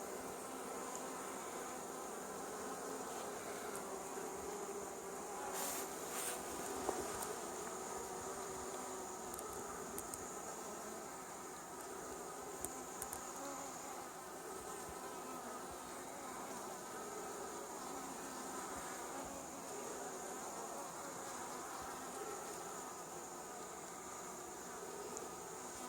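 A honey bee swarm buzzing steadily inside an open hive box: the dense, even hum of many bees.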